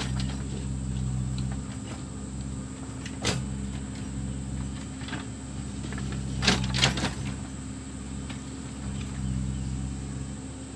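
Backhoe loader's diesel engine running, working harder at the start and again near the end. One sharp knock comes about three seconds in, and two louder knocks follow close together a little past the middle.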